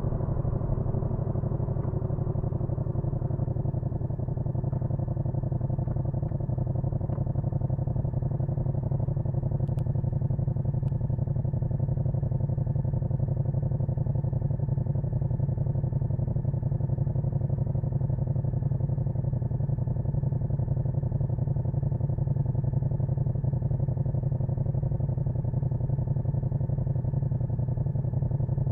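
Yamaha MT-07's parallel-twin engine running at a steady, unchanging pitch.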